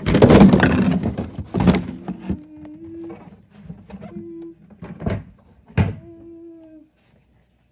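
A garbage truck's bin lifter runs with a motor hum that starts and stops in short spells, while the bin and its contents clatter and knock into the hopper, loudest in the first two seconds. It all stops shortly before the end.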